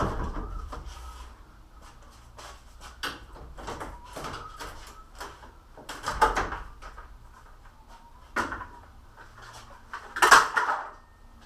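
Scattered clicks and knocks of objects being handled, with two louder bangs about six and ten seconds in.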